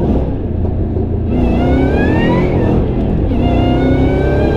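2012 Shelby GT500's supercharged V8 pulling hard under acceleration, with a high supercharger whine rising in pitch over the engine note. The whine breaks off briefly about three seconds in, as at a gear shift, then climbs again more slowly.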